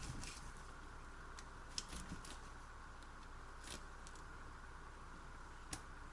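Faint steady underwater hiss with a few scattered sharp clicks, recorded during a spearfishing dive.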